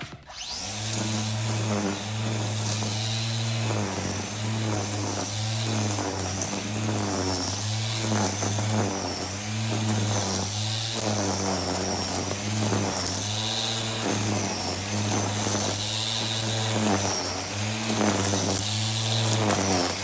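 Black & Decker 18V cordless string trimmer running steadily with a buzzing motor whine. The pitch dips and recovers roughly once a second as the spinning line swings into the grass.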